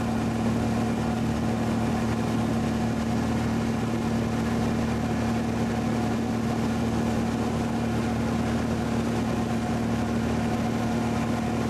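Light airplane's engine and propeller running steadily at one constant pitch, with an even rushing noise over it.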